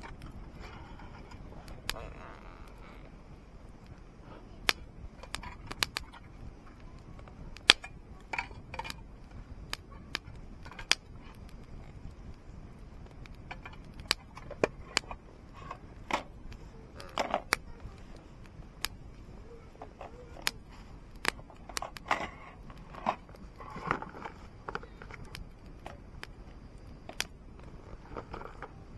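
Wood fire burning in a campfire stand, crackling with sharp, irregular pops.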